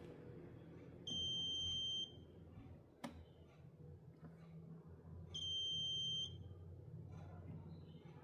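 Two steady high-pitched electronic beeps, each about a second long and about four seconds apart, over a steady low hum, with a single click between them.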